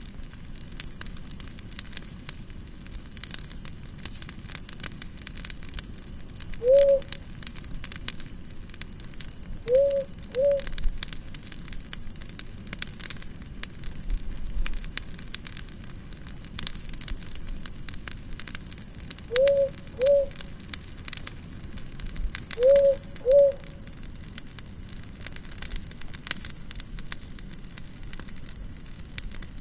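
Campfire crackling and popping, with a cricket chirping in short pulsed trills a few times. Short low calls, single or in pairs, come every few seconds and are the loudest sounds.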